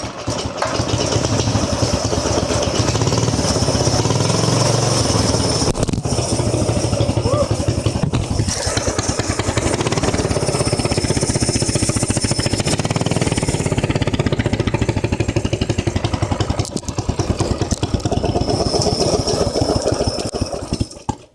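Mini bike's small engine catching and running with its speed rising and falling, then cutting out near the end. The throttle is faulty and the engine dies even at full throttle; the owner puts it down to the throttle cable.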